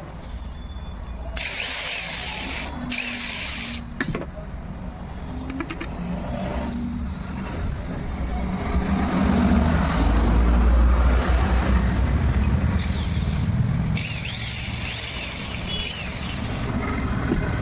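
A 7.5 kg electric breaker (demolition hammer) running in bursts. It is switched on and off several times, each burst starting and stopping abruptly, as its switch is tested.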